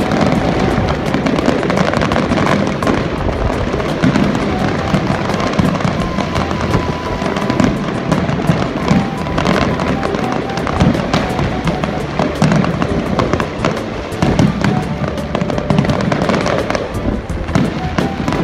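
Aerial fireworks display going off nonstop: a dense, unbroken run of bangs and crackles from shells exploding overhead.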